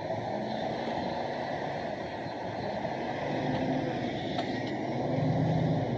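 Diesel engine of heavy earthmoving machinery running steadily, getting louder about halfway through as it works harder or comes closer.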